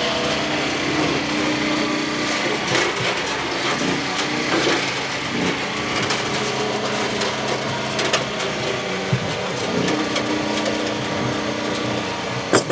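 Demolition derby car engines running, with the pitch rising and falling as they rev, and scattered knocks and clanks.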